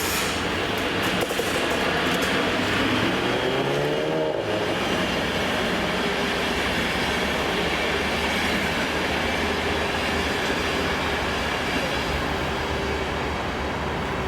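Electric train running, with a whine that rises in pitch about two to four seconds in and then holds steady.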